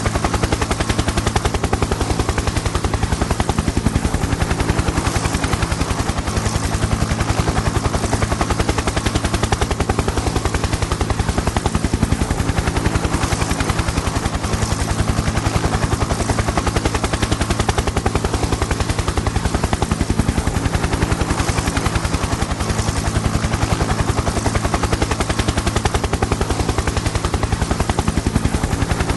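Helicopter in flight: the fast, even chop of the rotor blades over a steady low engine drone.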